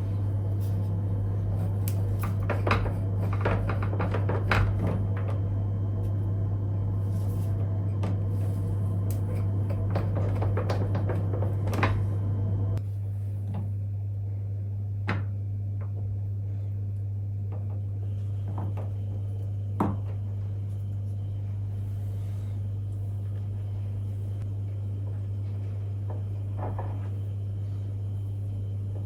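Kitchen handling sounds: dishes and cupboards clinking and knocking, busy for the first dozen seconds and then only a few scattered knocks, over a steady low hum.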